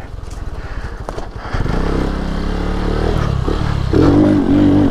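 Lifan KP Mini 150's single-cylinder engine ticking over low, then revving up about a second and a half in and pulling harder, loudest near the end.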